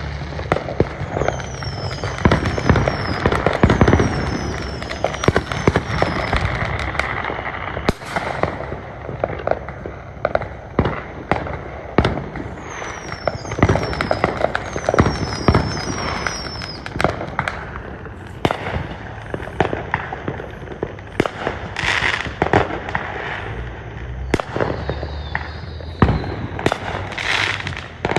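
Fireworks show: a steady run of sharp bangs and crackling. Twice it is joined by quick series of short, falling whistles.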